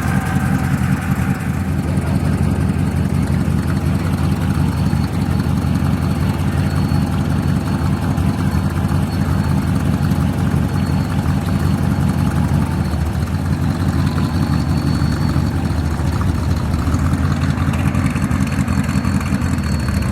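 A classic supercar's engine idling steadily, a low, even running sound with no revving.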